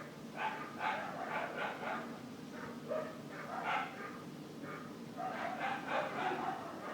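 A dog barking repeatedly in short, irregular bursts, over a low steady hum.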